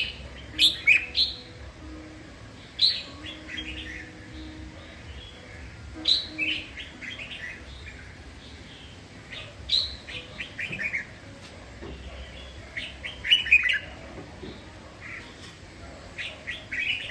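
Red-whiskered bulbul singing: short, bright phrases of quick notes that fall in pitch, repeated about every three to four seconds.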